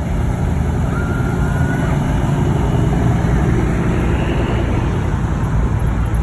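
Car engine and road noise, a steady low rumble, with a brief faint whine about a second in.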